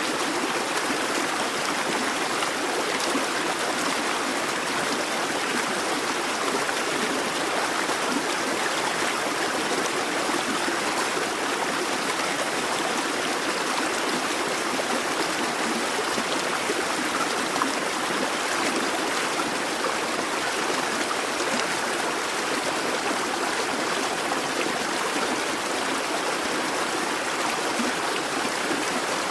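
Busy babbling brook: water running and splashing over stones in a steady, even rush.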